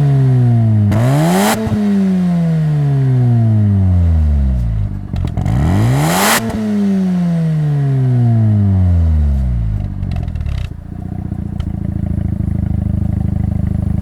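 Mazda RX-7 FD3S twin-rotor rotary engine breathing through an RE Amemiya TA-replica dolphin-tail muffler. It is blipped twice, about a second in and again around six seconds, with a rush of noise at the top of each rev, and each time the revs fall away slowly. Near the end it settles into a steady idle after a few crackles.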